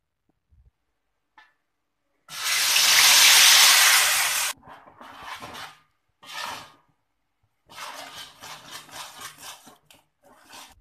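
Blended chilli paste hitting hot oil in a wok: a loud sizzle for about two seconds that stops abruptly. After that come short spells of a spatula stirring and scraping the sizzling paste.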